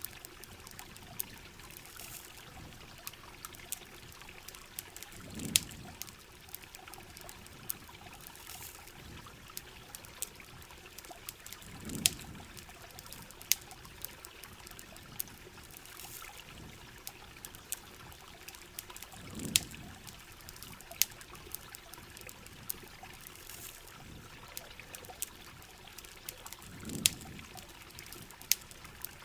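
Steady rain and trickling water, with frequent sharp pops from a crackling campfire and a soft low swell about every seven seconds.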